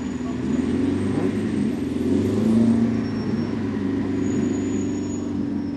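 Vintage racing car's engine running hard, its note rising and falling with the revs. It is loudest a little before the middle, then fades toward the end.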